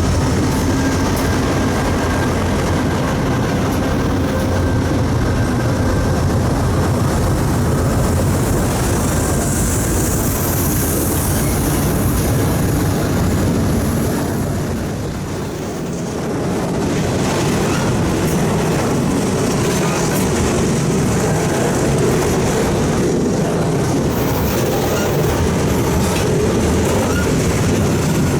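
Freight train rolling past: a steady rumble of railcars with wheels clicking over the rail joints and some faint high wheel squeal. The sound dips briefly about halfway through, then picks back up.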